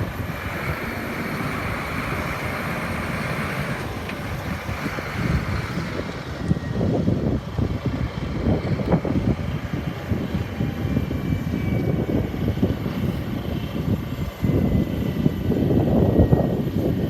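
Jet airliner engines running, their high rushing sound fading after about six seconds, under heavy gusting wind buffeting the microphone with a low, surging rumble that is loudest near the end.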